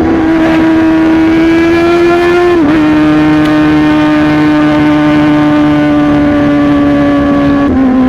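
Yamaha R15 V3's single-cylinder engine and exhaust running at high revs, a steady pitch that slowly falls, with a brief break about a third of the way in and another near the end.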